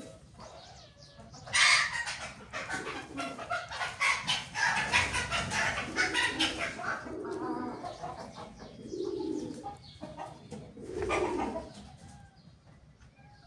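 Birds calling, with a loud, dense run of calls starting about a second and a half in and lower-pitched calls later, fading near the end.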